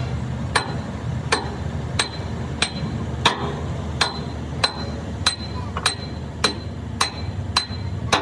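A hammer striking metal in a steady rhythm, about three blows every two seconds, each with a short metallic ring, over a steady low hum.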